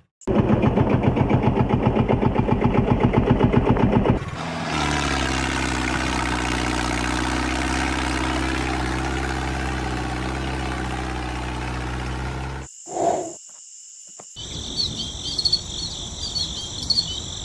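Small motorised model tractor running: a fast, even chugging for about four seconds, then a steady drone with a low hum until a little before the end. Birds chirp near the end.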